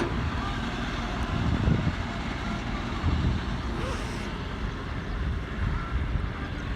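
Massey Ferguson 245 tractor's diesel engine running steadily, with a low rumble.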